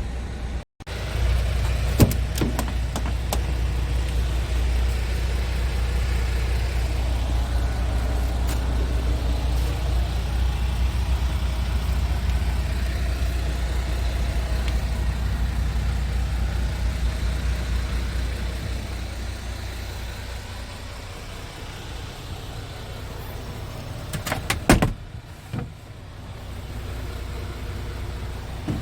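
Scania tractor unit's diesel engine running with a steady, deep low rumble that grows quieter about two-thirds of the way through. A few sharp clicks or knocks come near the start and near the end.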